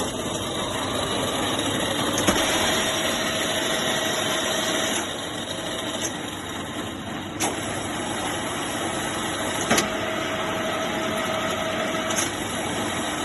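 VM127 vertical milling machine running with a steady mechanical hum. A whining tone comes in twice for a few seconds, and several sharp clicks or knocks sound along the way.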